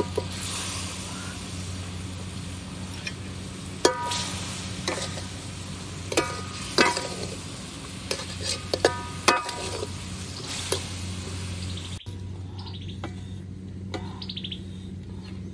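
Boiled eggs and tamarind sauce sizzling in a steel wok, with about six sharp, ringing metallic clinks of a spoon against the wok between about 4 and 9 seconds in. The sizzle drops away at a cut about 12 seconds in, leaving only a few light ticks of stirring.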